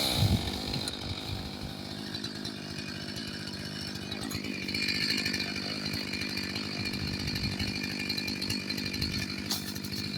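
Stihl MS 500i fuel-injected two-stroke chainsaw idling steadily just after the throttle is released, with a slight rise in level about halfway through.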